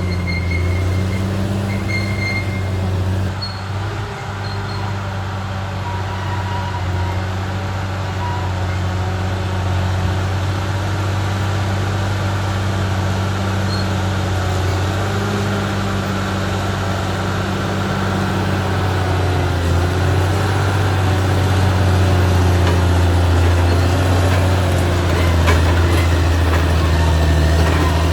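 Caterpillar D6R XL bulldozer's diesel engine running steadily under load, growing louder in the second half.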